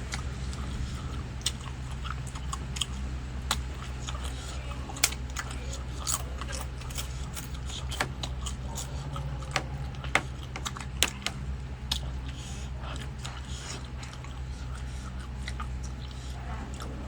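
Close-miked chewing and biting of Vietnamese blood pudding (tiết canh), with irregular crunchy clicks over a steady low hum.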